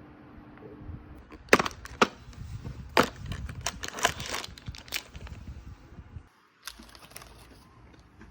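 A series of sharp clicks and knocks, like things being handled and set down, the loudest about a second and a half in, then a brief break and a few more clicks near the end.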